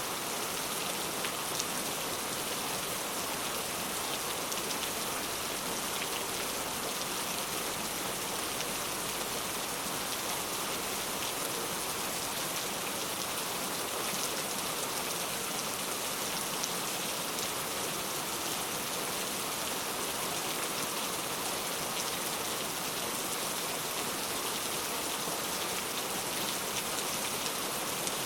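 Steady rainfall: an even hiss of rain on a surface, with a few faint individual drop ticks, holding a constant level.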